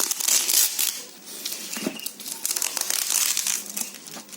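Plastic packaging crinkling and rustling in the hands as it is unwrapped, loudest in the first second, easing off briefly and then picking up again.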